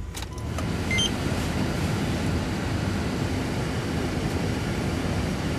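A vehicle's engine starting up with snow on it, then running steadily. A click comes just after it begins, and a short beep about a second in.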